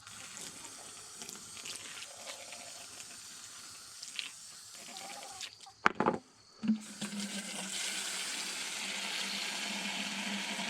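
A couple of sharp knocks about six seconds in, then water starts running steadily from a hose to fill the chickens' water.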